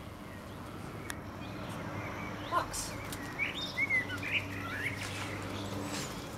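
Small birds chirping a few times about halfway through, short quick notes over a low steady hum.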